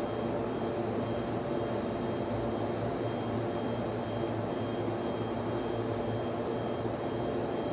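Steady hum and fan whir of server-room equipment, with a faint high whine.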